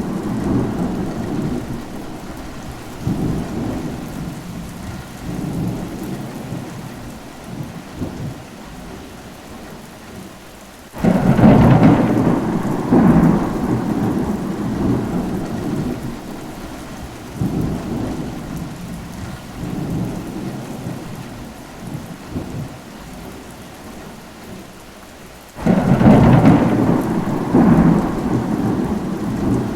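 Rain falling steadily, with two rolls of thunder: one about eleven seconds in and another near the end. Each starts suddenly and rumbles in several waves for a few seconds before fading back under the rain.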